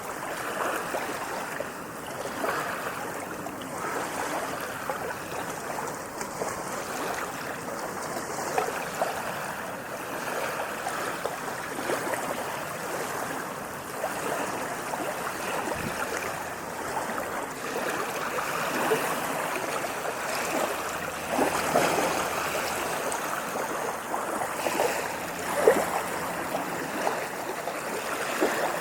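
Ocean waves washing and splashing, a steady rush of water with small crackling splashes. The wash swells about two-thirds of the way in, with one sharp splash near the end.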